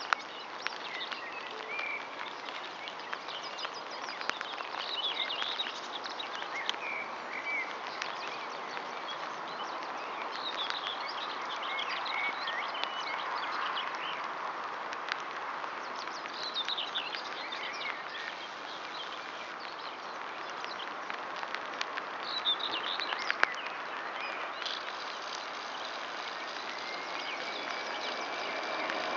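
Small birds chirping and singing on and off over a steady outdoor hiss. Near the end a distant jet aircraft on approach begins to swell in.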